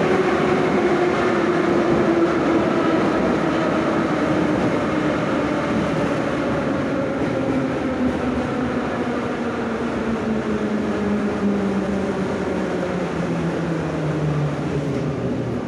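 Moscow Metro 81-717/714 'Nomernoy' subway train running, its traction motor whine falling steadily in pitch over steady wheel and track rumble as the train slows for a station.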